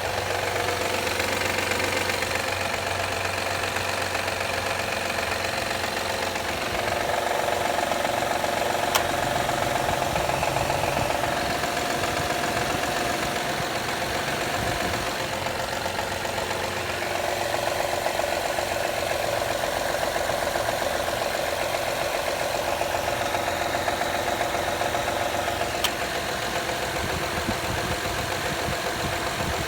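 2013 Honda Accord EX-L's V6 engine running while warming up in cold weather, with a loud clapping noise from the engine. The sound is steady, swelling a little about a quarter of the way in and again past the middle.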